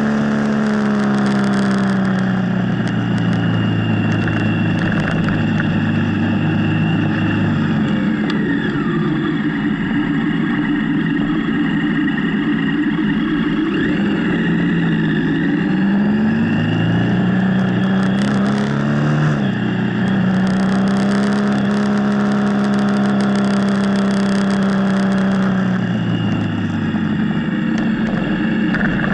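Motorcycle engine running under way, its note steady, then dropping as the throttle eases about a quarter of the way in, climbing again past the middle, and dropping once more near the end, over a steady rush of wind noise.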